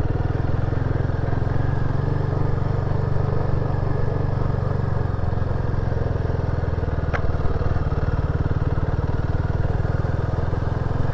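Royal Enfield Himalayan 450's single-cylinder engine running steadily as the bike is ridden slowly along a muddy track, with one short sharp click about seven seconds in.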